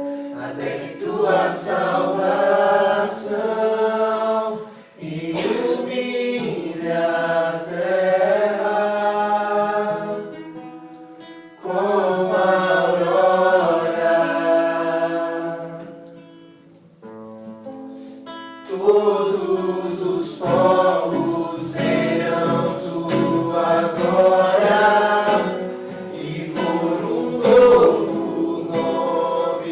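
A small group singing a Portuguese worship song together to acoustic guitar, in sung phrases with short pauses between them.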